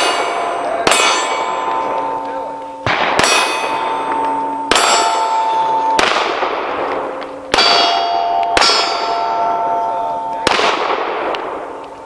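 Pistol shots at steel targets, each followed by the ringing clang of the struck steel plate. About six hits come one to three seconds apart, each ring fading until the next shot.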